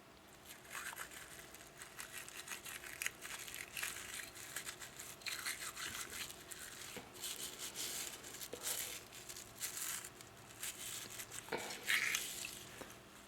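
A small brush scrubbing a humidifier part during cleaning with a bleach solution: quick, irregular scratchy strokes, with the loudest one near the end.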